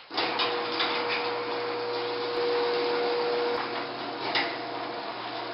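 Garage door running on its tracks, most likely driven by an opener motor. It starts suddenly with a steady hum and a held whine, with a few roller clicks and knocks along the way.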